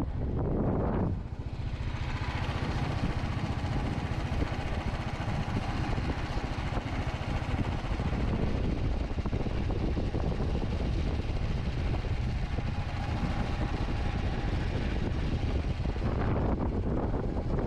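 Steady running noise of a moving road vehicle: engine and road rumble, heaviest in the low end.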